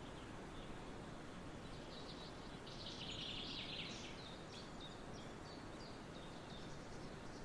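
Faint outdoor background hiss with small birds chirping: scattered short high chirps, and a denser run of chirping from about two and a half to four seconds in.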